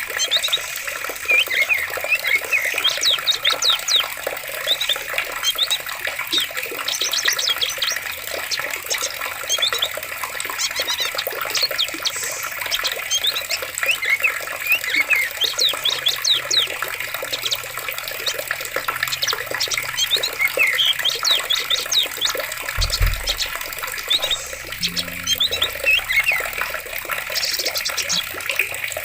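Steadily flowing water with many small birds chirping over it throughout. A brief low thump comes about two-thirds of the way through.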